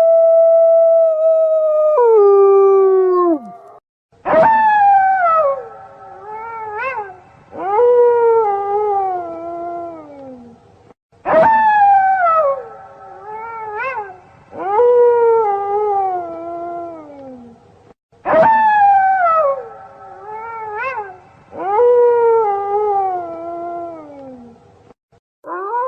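Wolves howling: a long held howl that sags and falls away, then a run of howls that start sharply and slide down in pitch with a wavering break, the same sequence repeating about every seven seconds.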